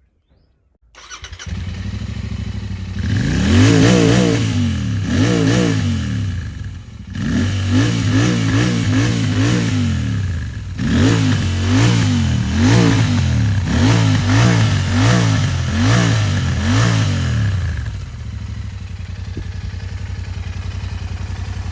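Royal Enfield Interceptor 650 parallel-twin engine starts about a second in and idles, then is blipped through a long series of quick revs, each rising and falling in pitch. Near the end it settles back to a steady idle.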